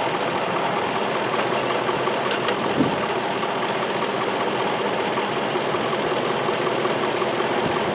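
2003 Infiniti M45's 4.5-litre V8 idling steadily, an engine with a random-cylinder misfire code (P0300).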